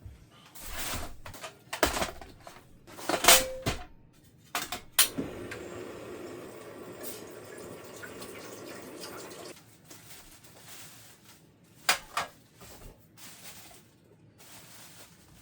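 Kitchen sounds: dishes and utensils clatter and knock several times, and then water runs or is poured for about four seconds.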